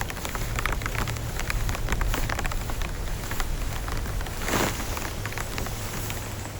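Heavy rain falling, with many separate drops tapping sharply on a surface close by over a steady hiss and a low rumble. A brief louder rush of noise comes about four and a half seconds in.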